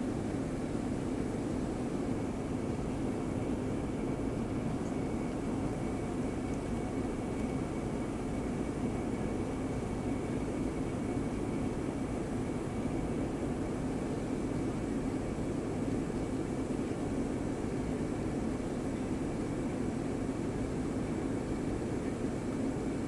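Steady drone of an airliner heard from inside the passenger cabin, engine and airflow noise holding an even level with a faint steady whine above it.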